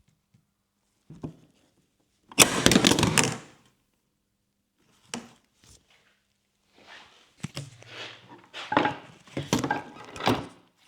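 Tools and motorcycle parts being handled during headlight work: a loud clattering clunk lasting about a second, starting about two and a half seconds in, then scattered clicks, knocks and rustling.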